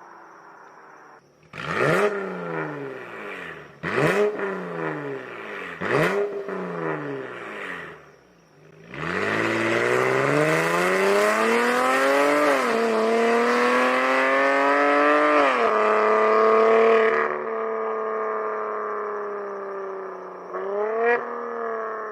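Dodge Challenger's engine through a titanium full aftermarket exhaust, revved from idle: three quick throttle blips about two seconds apart, then a longer rev that climbs for several seconds, dips briefly, climbs again and falls back to idle, with one more short blip near the end.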